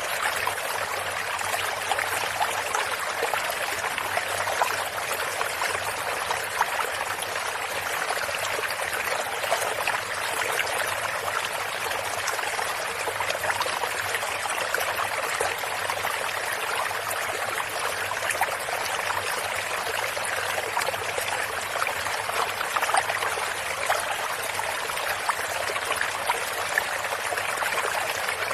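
Creek water flowing and trickling steadily over stones, an even rushing with small splashes throughout.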